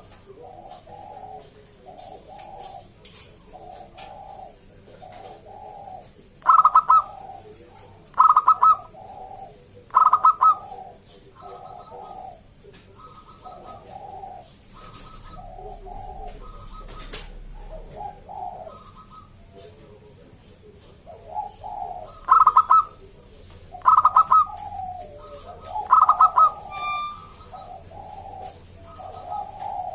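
Zebra doves (perkutut) cooing: a steady run of short soft coos. Twice, a set of three much louder, higher ringing calls comes about two seconds apart, near the middle and again near the end.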